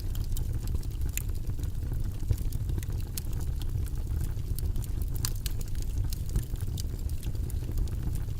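Steady low rumbling background noise from a white-noise track, with scattered faint light clicks throughout.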